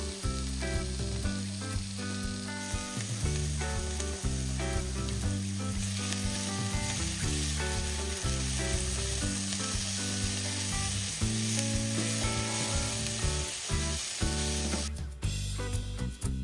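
Sliced carrots and onion sizzling in a frying pan as a spatula stirs them, under background music with a steady bass line. The sizzle cuts off suddenly near the end, leaving only the music.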